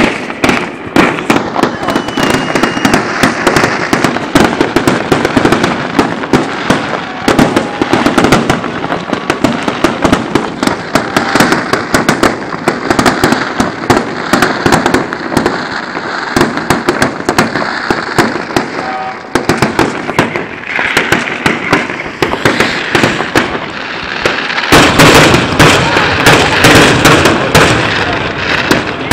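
Aerial fireworks shells bursting and crackling in rapid succession, the bangs overlapping almost without pause. About 25 seconds in, the barrage grows denser and louder.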